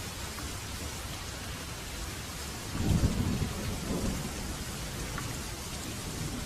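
Heavy rain falling steadily, with a burst of thunder rumbling about halfway through and fading after a second or two.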